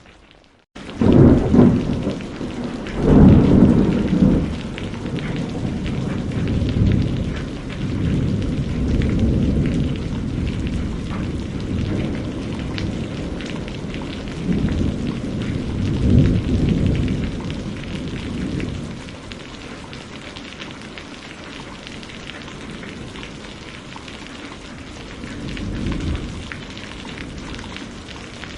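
Steady rain with rolling thunder. Heavy low rumbles swell and fade just after the start, again around the middle, and more softly near the end. The sound cuts out briefly in the first second.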